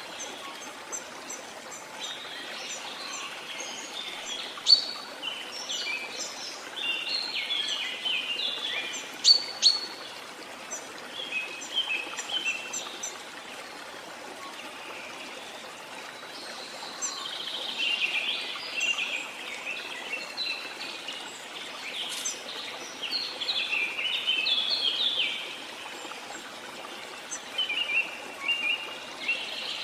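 Steady rush of a waterfall with many birds chirping and singing over it in quick, sharp notes, in two busy spells with a quieter lull in between.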